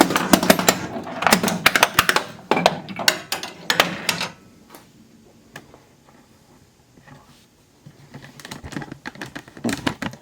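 A quick run of sharp clicks and clacks for about four seconds, then a quiet stretch, with a few more clicks near the end.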